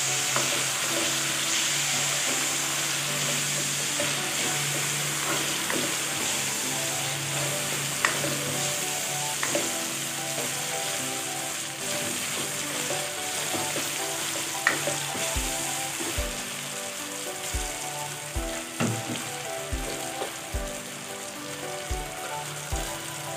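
Diced chicken frying in oyster sauce in a nonstick wok, sizzling steadily as a spatula stirs it, with a few sharp clicks of the spatula against the pan.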